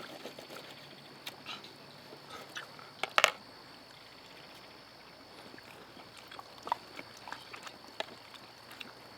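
A person chewing and biting into a grilled brat patty, with scattered small crunches and clicks and two sharp clicks about three seconds in.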